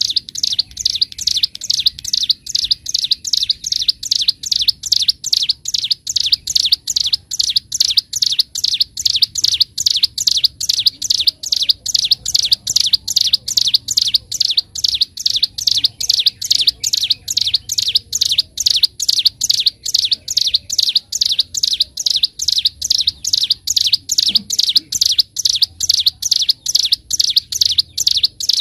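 Ciblek gunung (hill prinia) singing a long, unbroken run of sharp, evenly repeated notes, about three a second: the rapid 'ngebren' drilling song.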